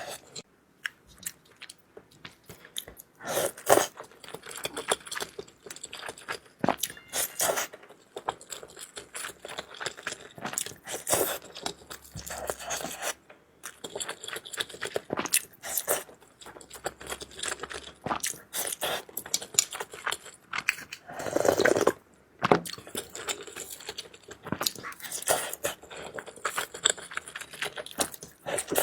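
Close-miked chewing and mouth smacks of someone eating noodles, a steady irregular run of wet clicks and crunches with a few louder bites.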